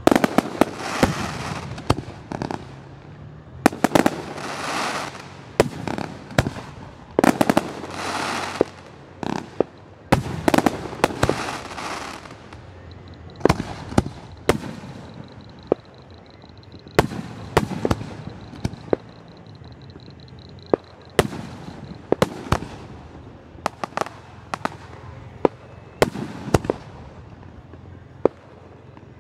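Aerial fireworks display, with shells bursting one after another in dozens of sharp bangs. In the first twelve seconds or so, stretches of rushing, crackling noise about a second long fall between the bangs.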